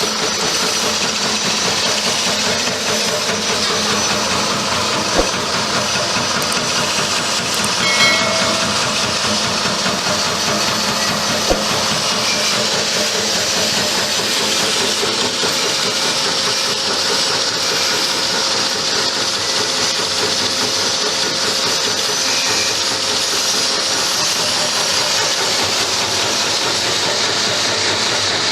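Nut-topping chopping machine running with a steady hissing mechanical noise, broken by three short knocks in the first half.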